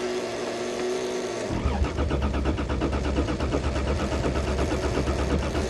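A steady hum, then from about a second and a half in the Toyota Cressida's starter cranks the engine in an even rhythm for about four seconds without it catching, then stops. The owner suspects ice in the fuel lines from water in the gas.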